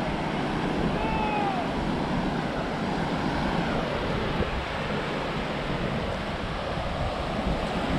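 Ocean surf washing onto the beach, a steady rush of breaking waves, with some wind noise on the microphone.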